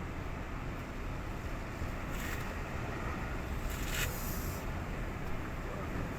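Steady low rumble of sea and wind against the microphone, with two brief hissing washes, like waves breaking or spray, about two and four seconds in.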